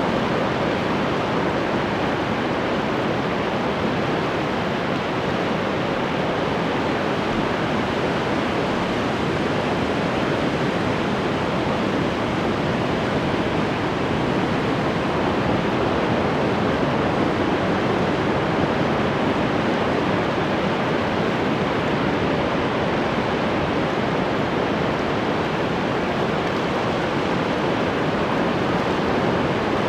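Ocean surf washing in a steady, continuous rush, with no single breaker standing out.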